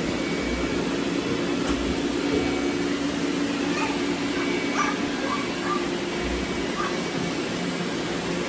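Several robot vacuums running at once: a steady whirring hum of their motors and brushes, with a few faint, short, high chirps near the middle.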